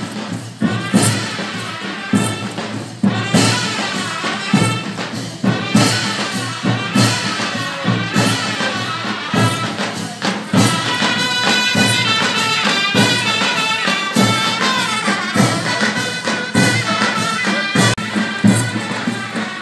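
Mehter military band playing: a shrill wind melody over regular drum beats and jingling cymbals.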